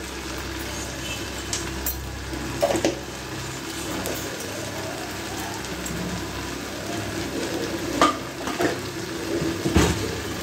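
Pumpkin paste sizzling steadily in hot mustard oil in a black kadai, with a few brief knocks in the middle and near the end.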